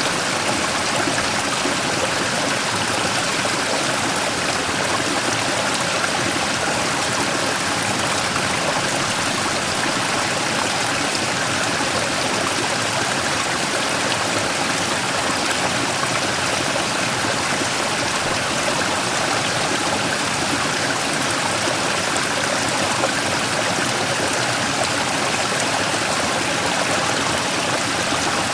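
Mountain stream rushing and splashing over a large rock in a small waterfall, a steady unbroken flow of water.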